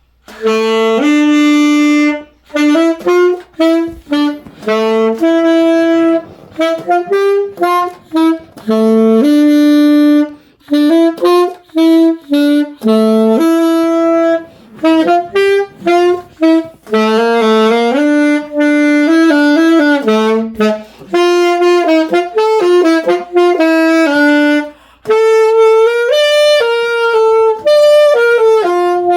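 A saxophone playing a slow melody solo, held notes joined in phrases with short breaths between them.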